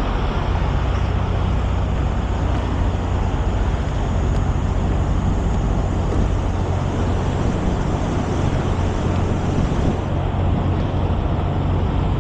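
Steady low motor-vehicle engine rumble with an even wash of road noise that does not change.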